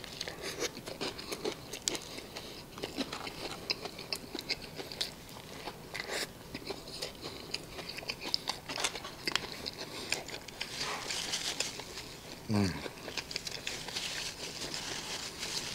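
Close-up biting and chewing of a crispy chicken burger: many small crisp crunches and mouth sounds. About twelve and a half seconds in there is a short low hum from the eater, falling in pitch.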